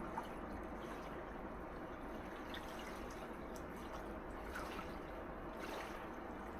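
Gentle sea waves washing on a shore: a steady wash of water with faint trickling and dripping ticks.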